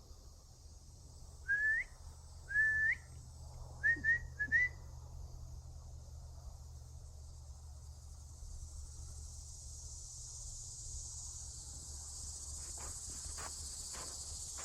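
Five clear whistled notes: two longer ones that swing up at the end, then three short quick ones. Behind them is a steady high chorus of insects that swells later on, with a few faint crackles near the end.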